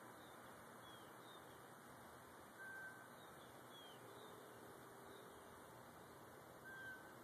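Faint bird calls over a steady hiss: a high chirp repeated about once a second, and two short whistled notes, one about two and a half seconds in and one near the end.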